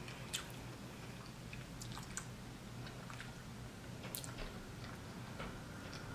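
Person chewing food close to the microphone, with scattered small clicks from the mouth.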